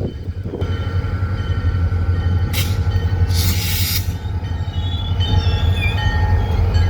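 Diesel freight locomotive running with a steady low drone, with two short bursts of hiss around the middle. High-pitched wheel squeal comes in over the last couple of seconds.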